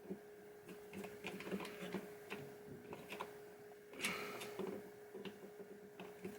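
Scattered light clicks and taps from handling small metal slingshot parts and a screwdriver on a pinball playfield, over a faint steady hum.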